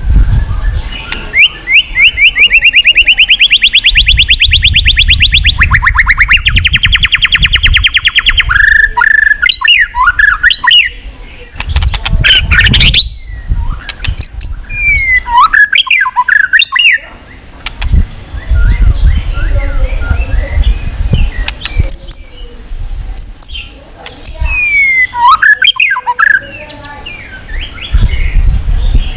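White-rumped shama singing: a long, fast trill of rapidly repeated notes lasting about seven seconds, then a run of varied whistles with sharp falling slurs.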